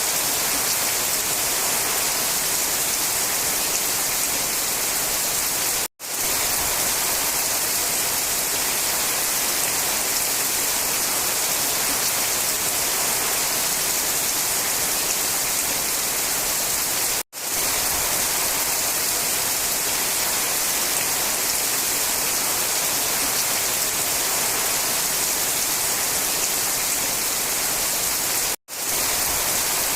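Steady heavy rain, an even hiss that cuts out for a split second three times, about every eleven seconds.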